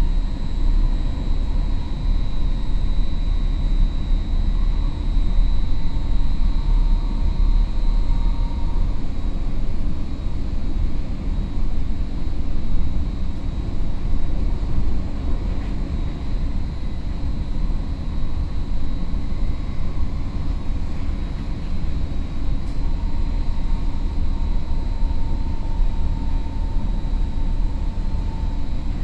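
Inside a Caltrain Stadler KISS electric multiple unit running along the line: a steady deep rumble of the train on the rails, with a thin high whine held throughout. A fainter middle tone comes in at the start and fades, then returns near the end with a slight fall in pitch.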